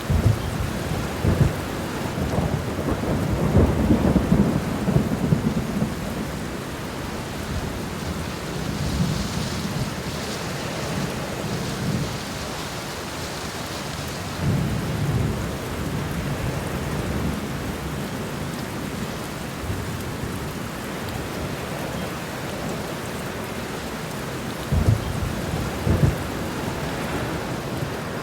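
Steady rain with low thunder rolling through several times, loudest in the first few seconds. Near the end there are two short, sharp low thumps.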